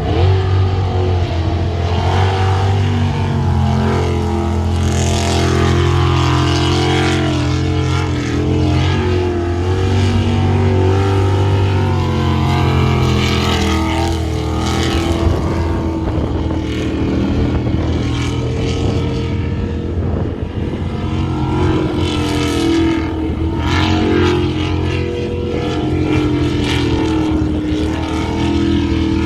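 V8 jet sprint boat engine running hard and loud, its pitch rising and falling as the throttle changes.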